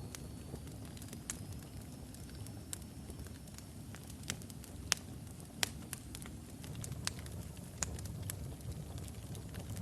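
Logs burning in a fireplace: a steady low rumble of flames with scattered sharp crackles and pops, the two loudest pops about five seconds in. A faint thin high whistle rises slightly over the first few seconds.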